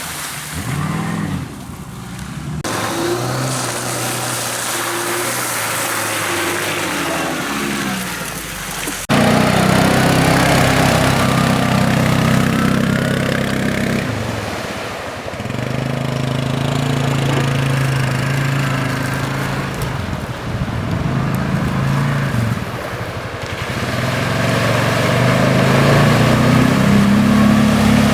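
Off-road 4x4 engine revving and pulling under load, its pitch rising and falling. About nine seconds in the sound changes abruptly and gets louder.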